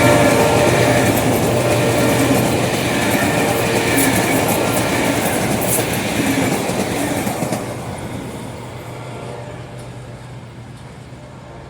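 A train hauled by a General Electric diesel-electric locomotive runs past, its engine humming steadily and its wheels clicking over rail joints. The sound fades away over the last few seconds as the train moves off.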